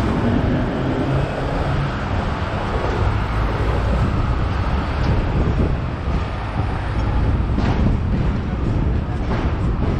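Hong Kong double-decker tram running along its street tracks: a steady low rumble and rattle of the car body and wheels on the rails.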